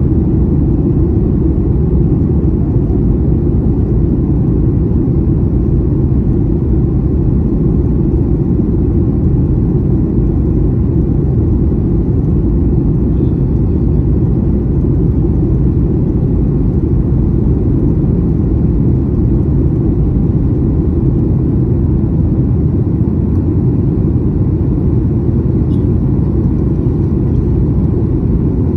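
Steady low roar of an airliner cabin in flight: engine and airflow noise heard from a passenger seat, even and unbroken.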